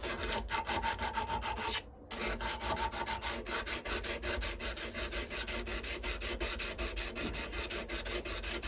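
120-grit sandpaper rubbed by hand in quick back-and-forth strokes along a steel knife blade, a rasping scrape about four to five times a second, with a brief pause about two seconds in. The sanding is taking out the bigger scratches in the blade.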